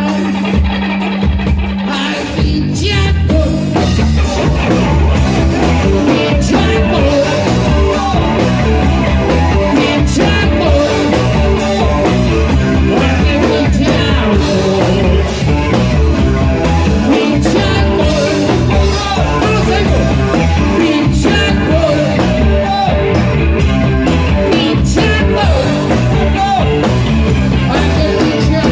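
Rock band playing live at a steady beat, with a man singing over it.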